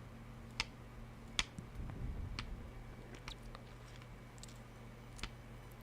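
Faint, scattered soft clicks close to the microphone, about six of them at uneven intervals, over a low steady hum.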